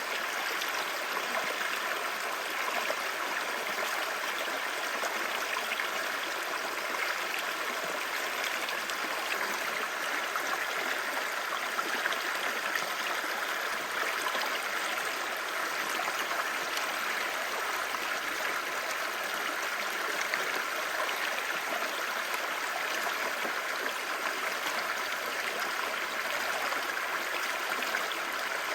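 Clear mountain stream babbling over rocks: a steady, even rush and gurgle of running water.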